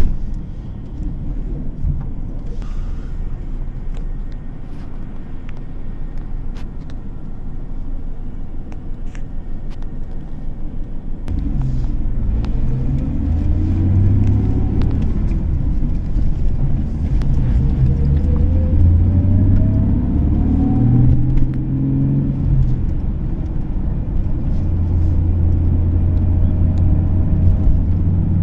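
Car driving with steady low road rumble and engine noise. About eleven seconds in it gets louder, and the engine note rises and falls several times as the car accelerates through its gears.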